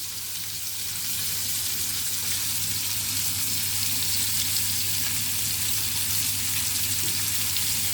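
Small meatballs sizzling and crackling in hot oil in a frying pan, a steady dense sizzle. A steady low hum runs beneath it.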